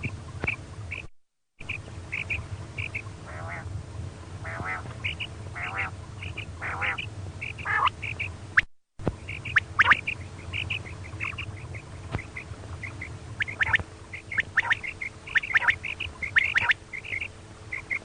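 Female quail calls used as a hunting lure: many short high notes repeated, mixed with longer, lower wavering calls, over a steady low hum. The sound cuts out completely twice, briefly, about a second in and again near the middle.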